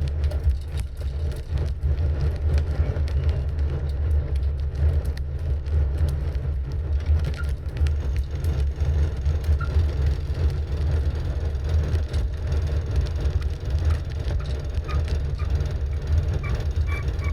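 Steady low rumble of wind buffeting a camera microphone while cycling. Near the end a few faint goose honks come in.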